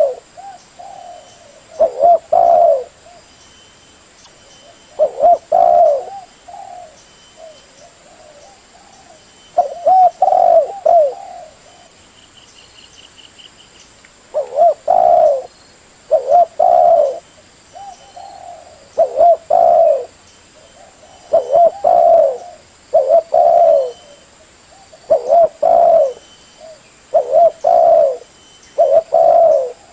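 Spotted dove cooing: short, loud coo phrases repeated every second or two, with a longer pause about a third of the way through.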